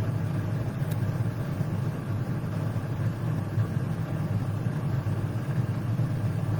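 Steady low hum with no breaks or changes in pitch, like a machine running steadily.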